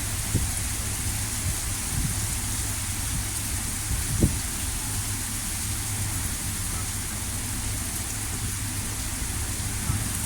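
Heavy thunderstorm rain falling steadily as a constant hiss over a low rumble, with a few short low thumps, the loudest about four seconds in.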